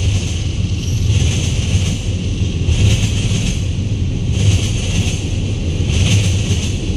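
Freight train rolling past close by, a string of empty bulkhead flatcars on a long manifest: a steady low rumble of wheels on rail, with a hiss that swells and fades about every second and a half.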